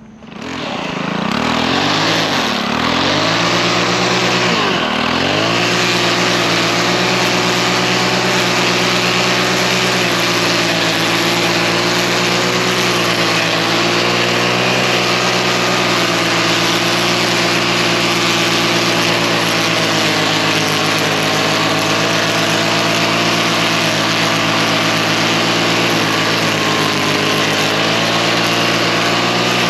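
Lawn mower engine coming up to speed, its pitch sagging and recovering twice in the first few seconds, then running steadily at high speed.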